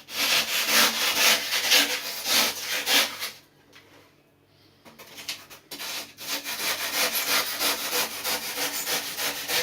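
Hand saw cutting through cured pour foam in a surfboard repair, in quick rasping back-and-forth strokes. The sawing stops about three and a half seconds in, then picks up again about two seconds later.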